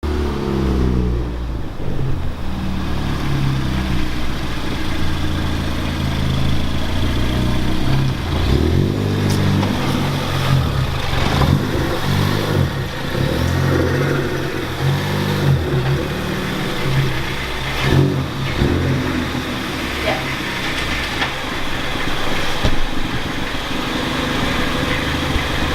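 A car engine running under way, its pitch shifting up and down as it revs, with a few short sharp noises along the way.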